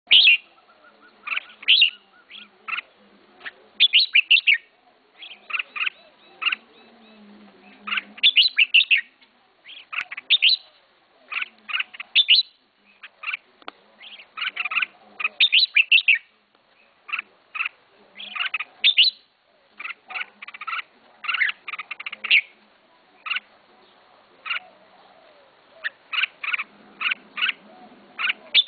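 Red-whiskered bulbul singing: short, bright phrases of a few quick whistled notes, repeated every second or two.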